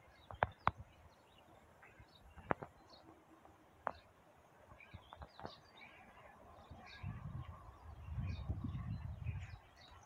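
Small birds chirping in scattered short calls, with a few sharp clicks in the first four seconds and a low uneven rumble in the last three seconds.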